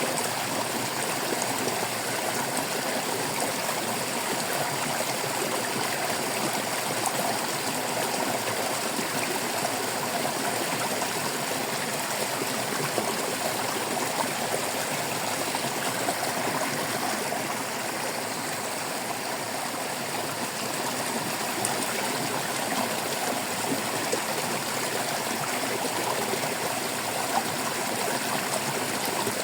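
Stream water babbling and trickling steadily, with small splashes scattered through it.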